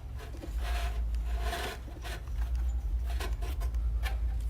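Rubbing and scraping of parts being handled, in two short stretches, then a few sharp clicks near the end, over a steady low hum.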